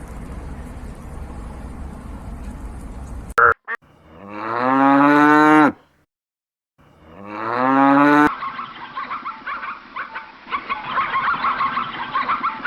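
A cow mooing twice, each long call swelling in loudness, after a few seconds of steady background hiss. After the second moo, a flock of poultry breaks into a busy, overlapping clamour of honks and cackles.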